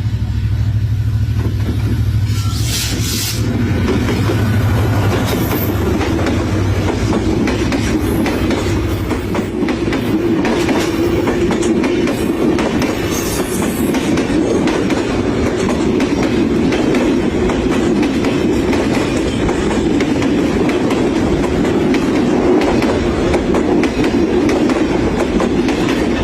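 Kurigram Express passenger train running at speed: a steady, loud clatter of wheels over the rails. A deep rumble is strongest for the first ten seconds or so, then eases.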